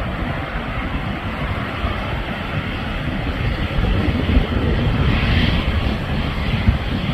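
Jet airliner engines at takeoff power: a loud, steady rumble, with a brighter hiss coming up briefly about five seconds in.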